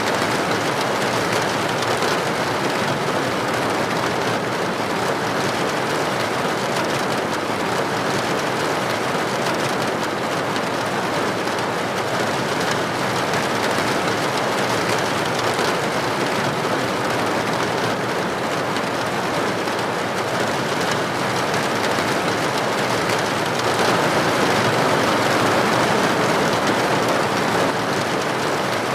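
Steady, dense rainfall, an even hiss of drops with no distinct individual strikes, swelling slightly a little before the end.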